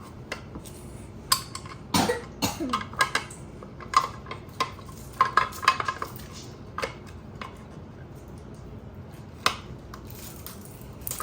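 Irregular clicks, knocks and light clinks of hard parts being handled and fitted together, such as a battery adapter being test-fitted against a motorcycle frame, clustered in the first half with a few isolated knocks later.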